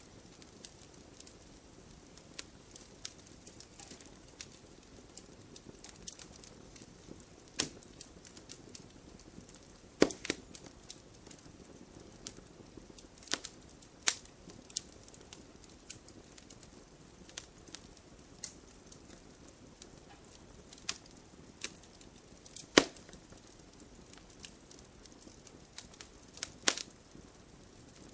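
Wood fire burning: a steady low hiss with irregular crackles and sharp pops of burning wood. The loudest pops come about ten seconds in and again about two-thirds of the way through.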